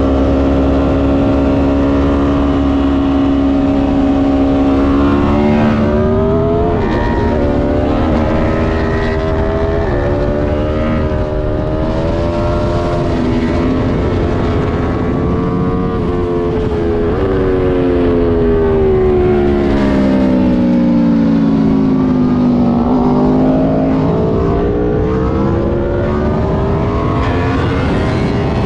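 2020 Aprilia Tuono Factory's V4 engine, heard onboard at track speed. It runs at a steady pitch at first, then climbs through the gears, the pitch rising and dropping at each upshift. Later it falls through a long slowdown and climbs again near the end.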